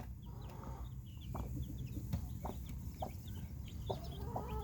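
Chicks peeping in many short, high chirps while the mother hen clucks softly; near the end the hen starts a longer, low call.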